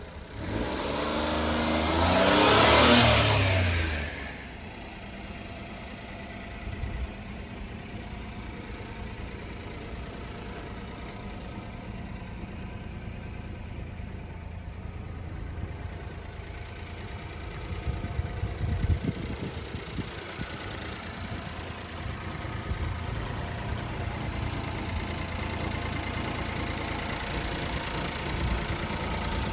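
A 1992 Honda Acty truck's small three-cylinder engine starting and flaring up in revs for the first few seconds, then settling into a steady idle.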